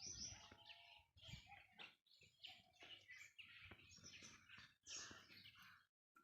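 Faint birds chirping and calling in quick, short calls, broken twice by abrupt cuts to silence.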